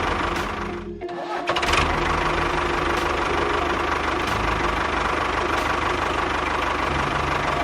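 A small engine running with a fast, even pulse. It drops out briefly about a second in, then picks up again and runs steadily.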